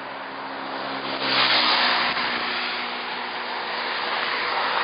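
Steady rushing noise of road traffic that swells about a second in, with a vehicle engine's low hum fading away in the first second and a half.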